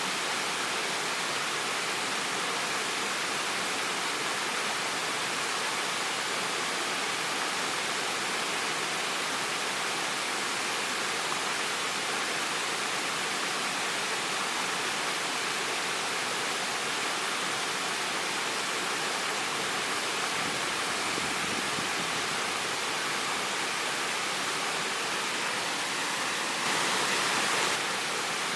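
Waterfall: a steady, even rush of falling water, briefly a little louder for about a second near the end.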